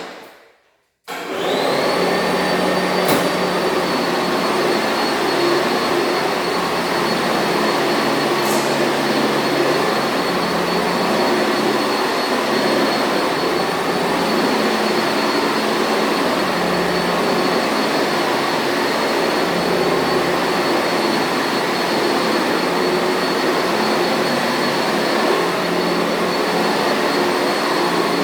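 Sanitaire commercial vacuum cleaner switched on about a second in: its motor whine rises quickly to a high pitch, then it runs steadily with a dense airflow rush.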